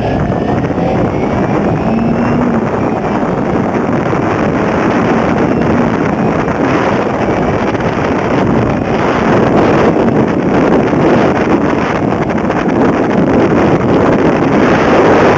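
Wind rushing over the camera's microphone while riding a 2008 Kawasaki Ninja 250R, with the bike's parallel-twin engine running under it at steady road speed. The noise grows louder about nine seconds in.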